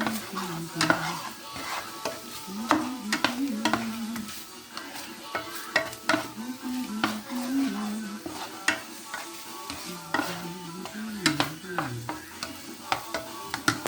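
Food sizzling in a frying pan while being stirred, with a utensil knocking and scraping against the pan many times at an irregular pace.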